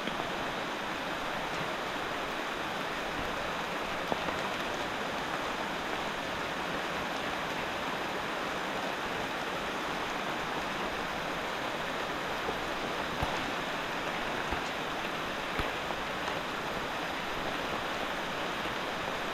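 Heavy rain falling together with a flood-swollen creek rushing below: a steady, even wash of water noise, with a few faint ticks of drops.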